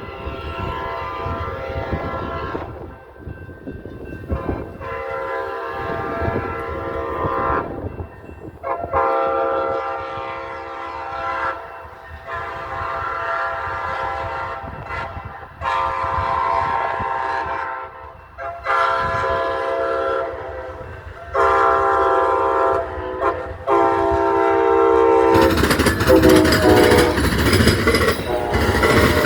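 Amtrak locomotive horn sounding a series of long blasts, each a couple of seconds, as the train approaches. About 25 seconds in, the train arrives close by and a loud rumble of engine and wheels takes over.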